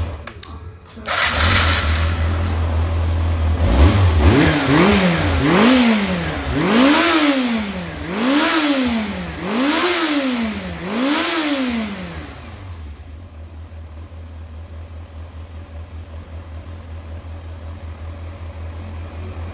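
Yamaha XJR400 inline-four engine running, blipped several times in a row so the pitch rises and falls with each rev, then settling to a steady idle about two-thirds of the way through. The seller describes it as running well with no abnormal noise.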